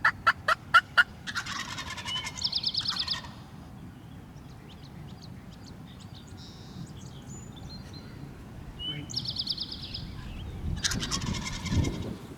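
Wild turkey gobbling several times, each a rapid rattling call, opening with a run of about five loud, short, evenly spaced notes.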